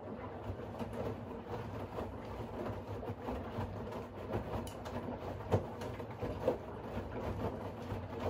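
Siemens iQ700 front-loading washing machine running its wash, the drum turning with laundry tumbling inside: a steady rumble with frequent small knocks and clicks. It fades in right at the start.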